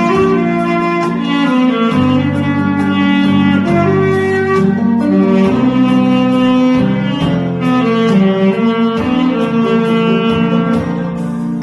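Saxophone playing a slow, held melody over a backing track with bass and a steady drum beat.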